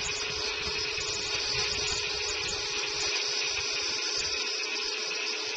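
Chainsaw engine running steadily at one high pitch over a hissing noise, with wind rumbling on the microphone.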